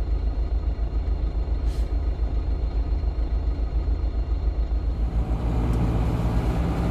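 GAZon Next truck's diesel engine idling, heard from inside the cab. About five seconds in the engine note grows louder as the truck begins to creep forward in the jam.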